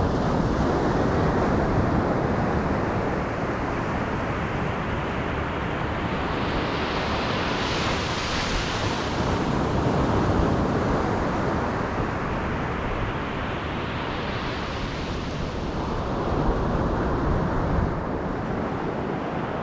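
Ocean surf breaking on a sandy beach: a continuous rush of waves, with the hiss of washing water swelling about eight seconds in and again around fifteen seconds. Wind buffets the microphone, adding a low rumble.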